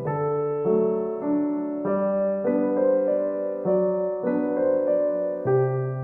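Background music: soft piano playing a slow melody over sustained chords, the notes changing about once or twice a second.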